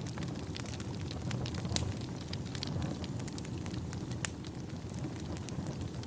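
Wood fire crackling: irregular sharp pops and snaps over a steady low rumble, with two louder pops about two and four seconds in.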